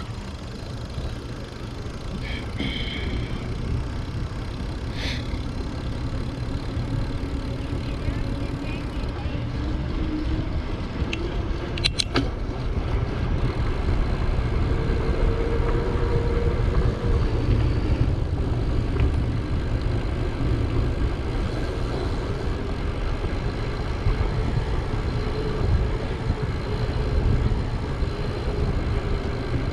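Wind rumbling on the microphone and road noise of a bicycle rolling along a paved road, with a sharp click about twelve seconds in.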